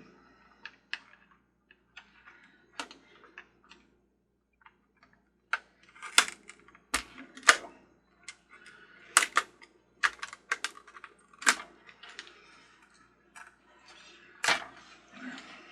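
Irregular sharp clicks and knocks of hard plastic parts and small tools being handled while the carousel's base is taken apart, sparse at first and coming thick and loud from about halfway through.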